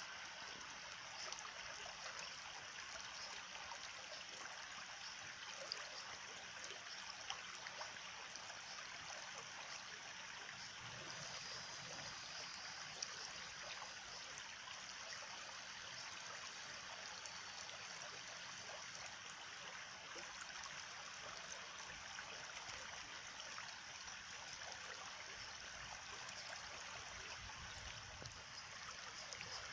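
A stream of running water trickling steadily, with a few faint ticks near the start and middle.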